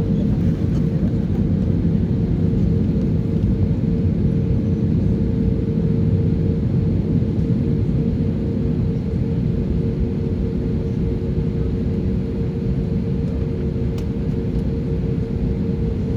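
Airliner engines running steadily: a constant low rumble with a steady hum on top.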